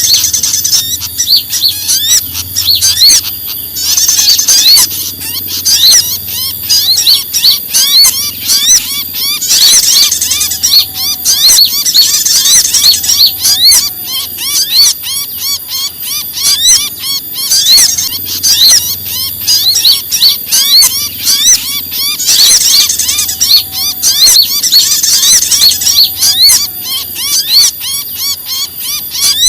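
A bird-lure recording of many small songbirds chattering and giving rapid, agitated alarm chirps all at once: a dense, high-pitched mass of calls with louder clusters every few seconds. It is the 'trapped, alarmed bird' commotion that is played to pull small birds in.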